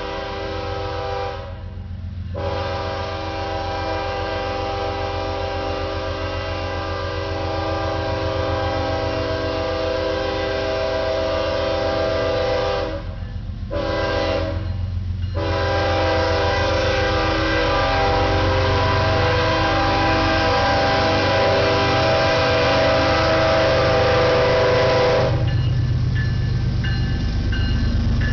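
Diesel locomotive air horn sounding a multi-note chord in a long–long–short–long pattern, the grade-crossing signal, over the low rumble of the locomotive's engine. The horn cuts off about 25 seconds in, leaving the engine rumble and the clatter of the passing train.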